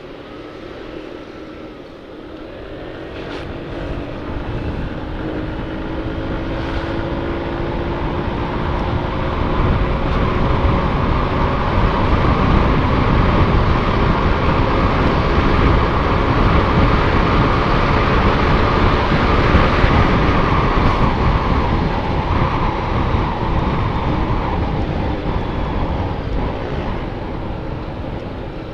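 Motorcycle engine rising in pitch as it speeds up, with wind rushing over the microphone. The wind grows louder through the middle and eases off near the end.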